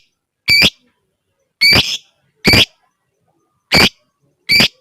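Lovebird giving short, sharp, shrill single calls, five of them about a second apart with silence between: the clipped 'ngetik' style of calling.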